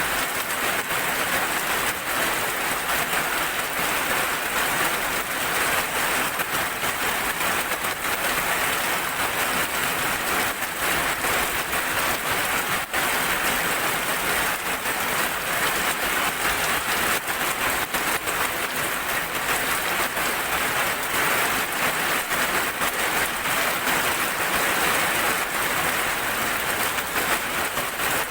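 Heavy rain falling steadily: a dense, even hiss with many fine drop ticks through it.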